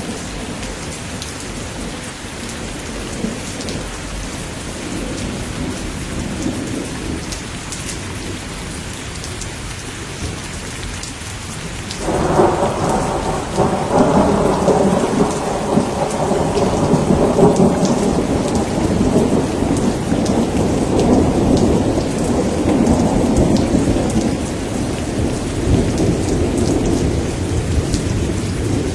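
Steady rain during a thunderstorm. A little under halfway through, a rumble of thunder starts suddenly, rolls on for about ten seconds, then fades back under the rain.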